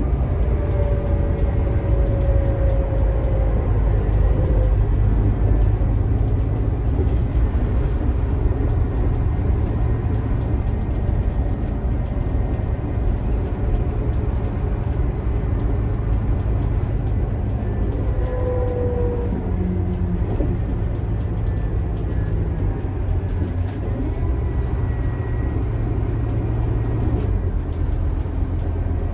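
Scania K280IB bus running steadily under way, its 9.3-litre five-cylinder turbodiesel giving a deep, steady drone. Brief falling whines are heard near the start and again a little past halfway.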